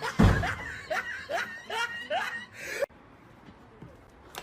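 A thump, then a person snickering in a run of short laughs, about two a second, that cuts off suddenly about three seconds in.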